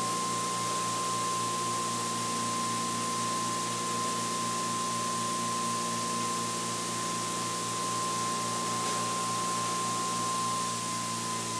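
Electric prime-mover motor spinning a generator rotor on a test bench, a steady high whine over a low hum and hiss, with the whine beginning to drop slightly in pitch near the end.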